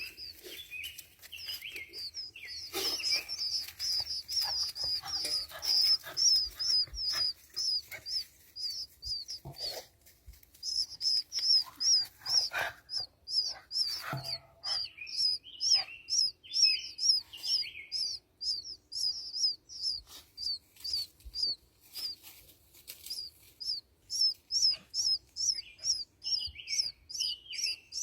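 Nestling birds begging in the nest: a steady run of short, high, repeated chirps, about three a second, with lower, rougher calls now and then. Scattered clicks and rustles sound among them.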